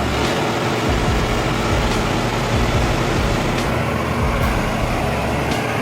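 Truck engine running steadily with a heavy low rumble, with vehicle noise throughout.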